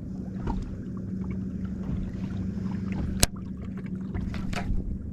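Boat motor humming steadily, with scattered small ticks and one sharp click about three seconds in.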